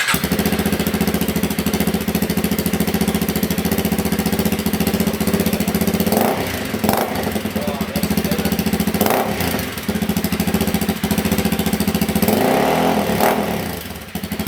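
Honda CRF300 Rally's single-cylinder engine, breathing through an aftermarket MotoX muffler, starting and idling. The throttle is blipped briefly about six and nine seconds in and held open a little longer near the end. Not too loud.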